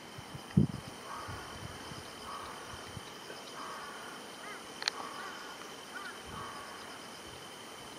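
A bird calling in a series of short, harsh calls, about one a second, with a sharp click about five seconds in, over a steady high-pitched background hum.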